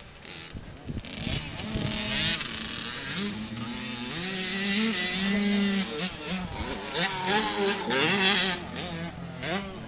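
Dirt bike engine revving, its pitch climbing and dropping several times, with short rushes of noise over it.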